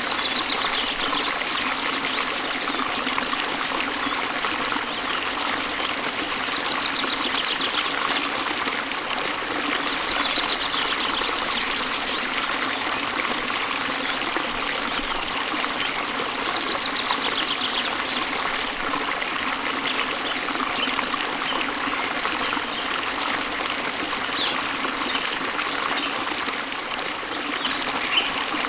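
Waterfall water rushing and splashing steadily, with faint high bird trills now and then.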